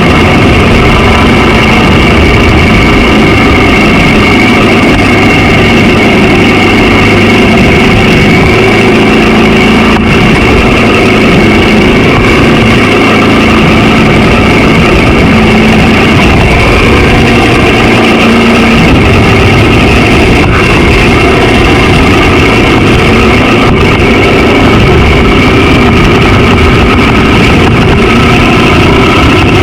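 Honda XR650L's single-cylinder engine running steadily while the bike is ridden: loud and even, its pitch holding level with no revving or gear changes.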